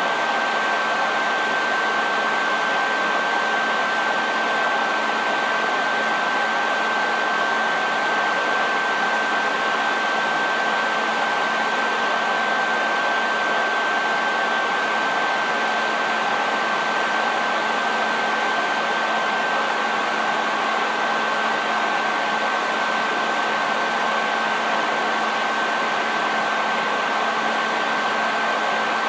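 Handheld hair dryer running steadily: a continuous rush of blown air with a constant high whine from its fan motor and a faint low hum underneath.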